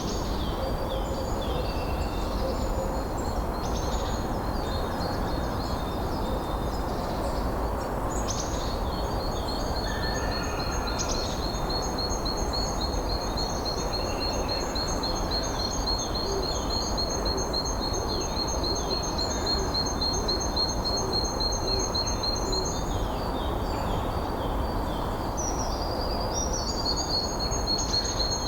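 Steady wind with several songbirds calling and chirping. From about eight seconds in, a long, rapid, high trill runs for about fifteen seconds, and another begins near the end.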